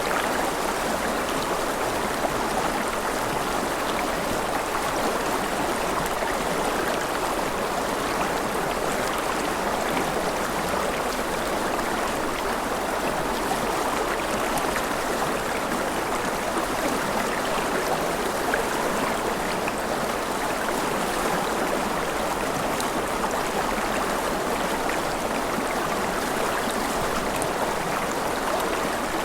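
Steady, unbroken hiss of falling and running water, like rain, with faint scattered drip ticks.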